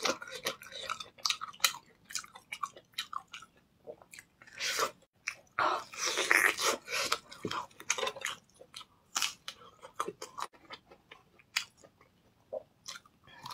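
A person chewing and biting into smoked, then grilled meat on the bone: irregular wet mouth clicks and crunches, with a few denser bouts of chewing.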